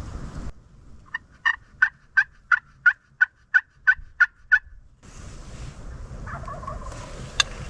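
A series of about a dozen evenly spaced turkey yelps, about three a second, starting about a second in and ending around the middle.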